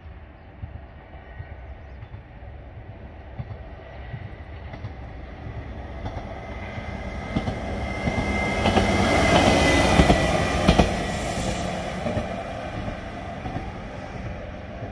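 A single-car diesel railcar approaching and passing close by: its engine and wheels grow steadily louder to a peak about ten seconds in, with a few clicks of the wheels over rail joints and a thin high ringing tone at the loudest point, then fade as it moves away.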